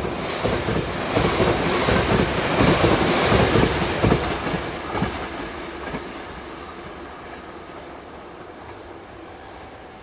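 Electric freight train passing close by, its wheels clacking over the rail joints; the noise swells to its loudest about three to four seconds in, then fades steadily as the train moves away.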